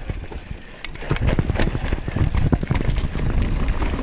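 Mountain bike riding fast over rough trail: rumbling tyres with frequent sharp knocks and rattles from the bike, louder from about a second in.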